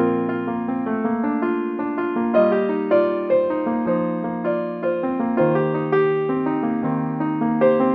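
Background music: a slow, gentle piano piece with sustained notes and a soft melody.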